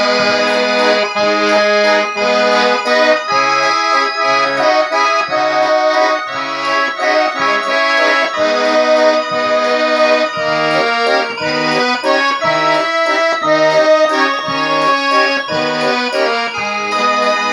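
Russian garmon (button accordion) playing an instrumental interlude of a folk song: a melody in the right hand over short, rhythmic bass and chord notes.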